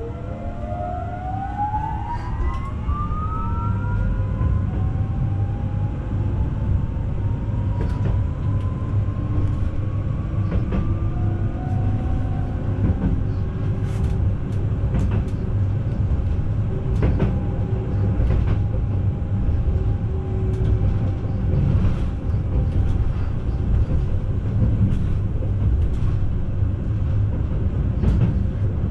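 Newag Impuls 2 electric multiple unit pulling away from a station: its traction motors whine rising in pitch over the first few seconds as it accelerates, then a steady low running rumble with occasional sharp clicks from the wheels on the track.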